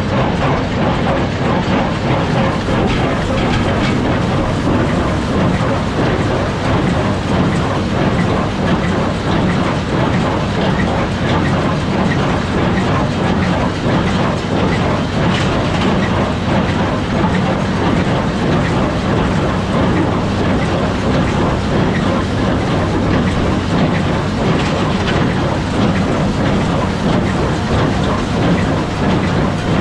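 Tractor running with a Massey Ferguson 1840 small square baler working behind it: a loud, steady mechanical clatter over the engine drone.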